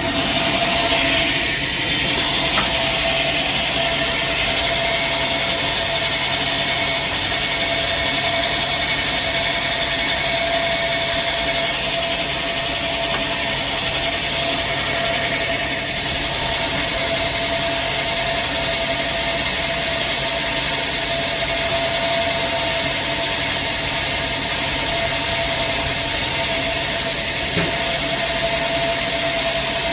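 Sawmill machinery running steadily, an engine-like drone with a constant steady tone over it.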